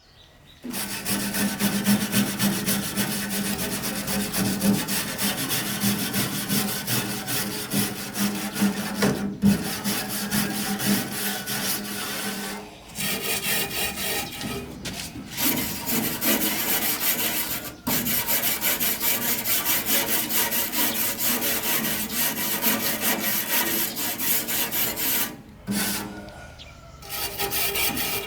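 A small electric power tool running while working against a part, with a steady motor hum under a grinding, rubbing noise. It stops briefly several times and pauses for about a second and a half near the end.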